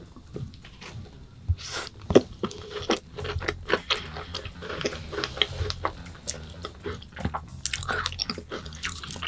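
Close-up chewing of a strawberry tart with a crumbly crust: wet chewing with many small, irregular clicks and crackles, the sharpest about two seconds in.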